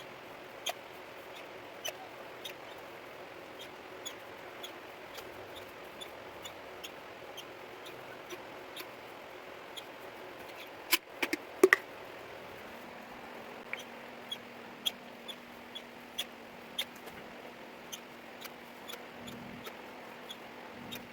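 Hand caulking gun clicking with each squeeze of its trigger as self-leveling sealant is pushed out of the tube. Short sharp clicks come every half second to a second, with a louder clatter of clicks around the middle.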